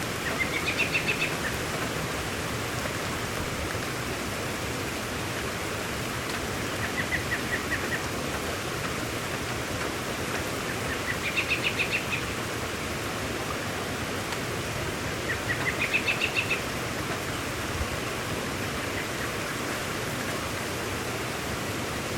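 Steady rain falling, with a songbird calling four times through it, each call a quick run of rapid notes rising in pitch.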